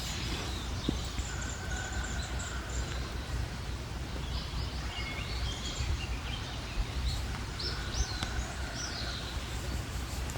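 Small birds chirping and calling, short rising and falling notes scattered throughout, with a thin held note heard twice, over a steady low rumble of outdoor background noise.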